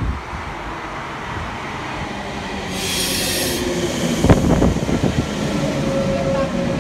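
Stainless-steel double-deck electric passenger train pulling into the platform, its running noise growing louder. A short hiss comes about three seconds in, then a few clunks of wheels over the track about a second later, and a steady high whine holds to the end.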